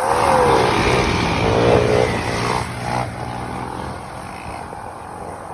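Motorcycle engine revving, its pitch rising and falling, then dying down after about three seconds.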